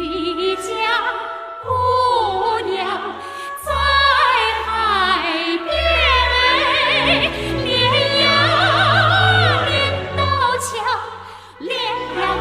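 A song from Chinese revolutionary opera sung solo in a high, operatic voice with wide vibrato over orchestral accompaniment. The voice pauses briefly near the end, then comes back in.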